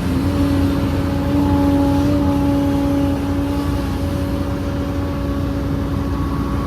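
Heavy diesel earthmoving machinery running steadily, a low engine rumble with a held whine over it.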